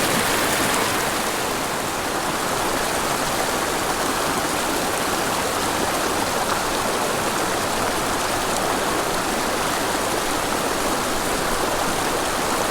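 Steep mountain creek rushing steadily over rocks and small waterfalls, a constant full hiss of falling water.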